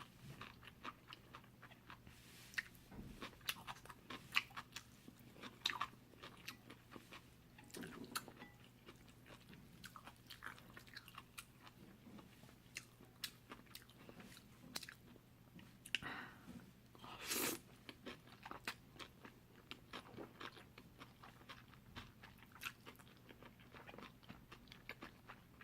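Close-miked eating sounds of jjolmyeon, spicy chewy cold noodles: chewing with many short, sharp mouth clicks, and a longer, louder noisy sound about seventeen seconds in.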